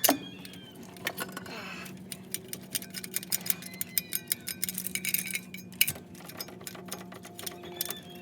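Ratchet and socket clicking, with metal hand tools clinking, while a spark plug is worked on; a steady low hum runs underneath.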